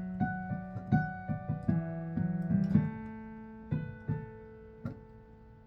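Electric keyboard playing a short run of notes over a bass note. From about three seconds in, a chord is held and slowly fades under a few light taps.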